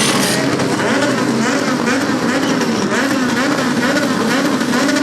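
Motorcycle engine running, its pitch rising and falling over and over.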